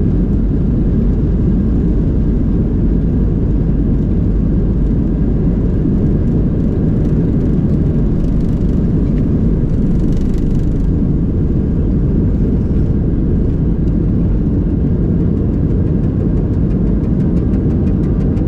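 Boeing 737 airliner heard from inside the passenger cabin during takeoff: a loud, steady, deep rumble of the jet engines and rushing air.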